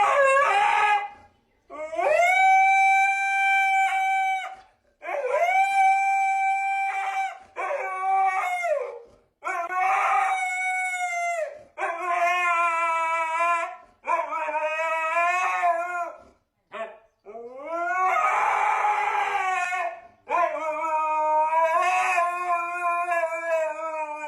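Husky howling: a string of about ten long howls with short pauses between them. The first few are held at one steady pitch, and the later ones waver up and down.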